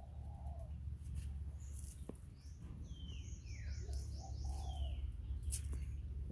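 Wild birds calling: a run of falling chirps and quick high notes in the middle, and low cooing calls near the start and again past the middle, over a steady low hum.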